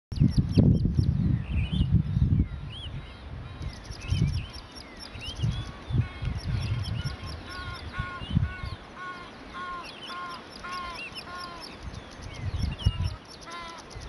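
Several songbirds calling: scattered short chirps and whistles, with a run of about ten short down-curved notes repeated evenly a little past halfway through, over a faint high ticking. Low rumbles on the microphone come and go and are loudest near the start.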